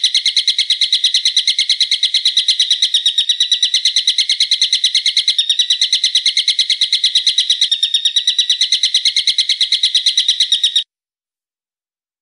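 Recorded songbird call: a long, fast, even series of sharp high notes repeated many times a second, cutting off abruptly near the end.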